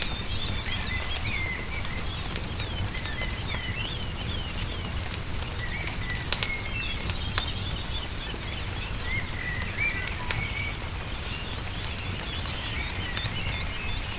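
Songbirds chirping and twittering over a crackling wood fire, with sharp pops scattered through and the loudest few about six to seven seconds in, above a steady low rumble.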